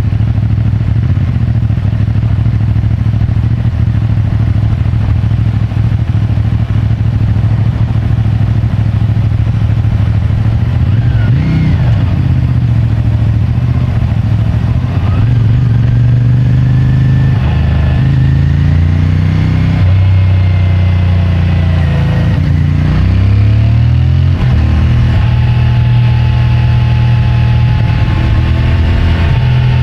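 CFMOTO 450MT motorcycle's 449 cc parallel-twin engine running through its stock exhaust. The note holds steady for about the first ten seconds, then rises and falls in pitch several times as the bike accelerates and shifts gear, settling to a steady, higher note near the end.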